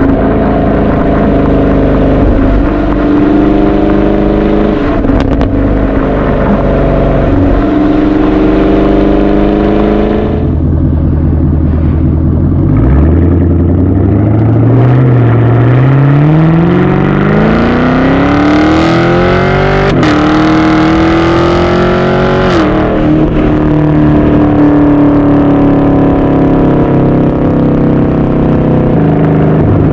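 Chevrolet Camaro SS 6.2-litre V8 running through a muffler-delete AWE Track Edition axle-back exhaust. It idles steadily, is slowly revved up from about halfway through, holds briefly, then drops sharply back to idle.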